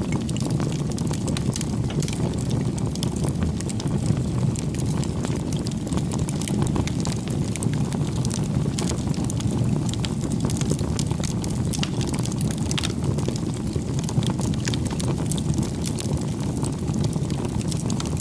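Wood fire burning, with a steady low rumble and frequent sharp crackles and pops from the burning wood.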